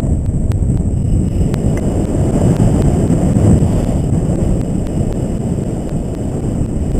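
Wind rushing over the microphone of a paraglider pilot in flight: a steady, loud low rumble of buffeting air.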